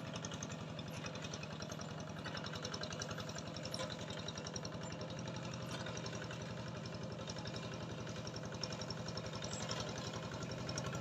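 Engine running steadily at idle, with a rapid, even chugging.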